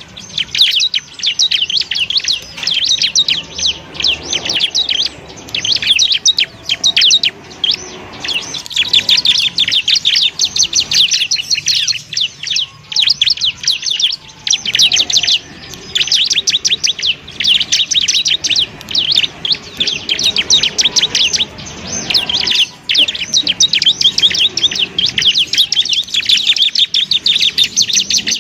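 Bar-winged prinia (ciblek) singing a fast, dense run of high chirping notes, with only a few short breaks.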